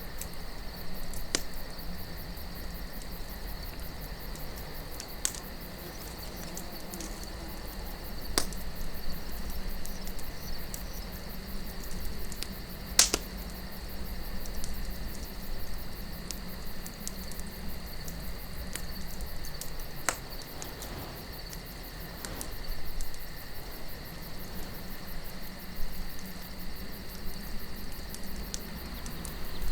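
Campfire crackling, with sharp pops of burning wood every few seconds, the loudest about thirteen seconds in, over crickets chirping steadily and a low rumble of wind.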